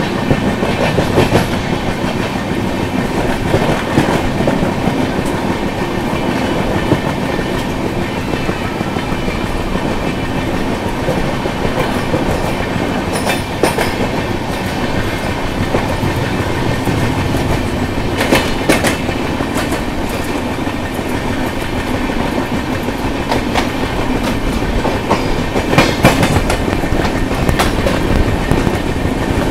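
Express passenger train running on the rails, heard from aboard: a steady rumble of the coaches with the clickety-clack of wheels over rail joints and a few sharper clacks.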